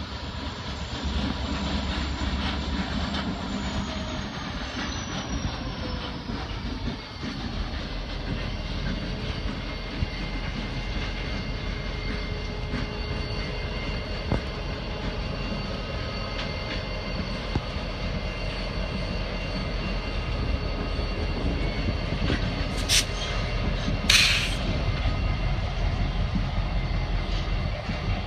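Norfolk Southern diesel freight locomotive and its train rolling slowly past, with a steady low rumble and humming tones. One tone falls in pitch over the first several seconds, and two brief high-pitched sounds come near the end.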